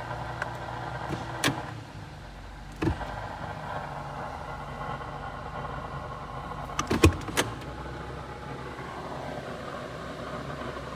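Steady hum of a 2019 Hyundai Tucson's 2.0-litre four-cylinder idling, heard from inside the cabin, with a few sharp clicks and a knock, loudest in a quick cluster of three or four about seven seconds in.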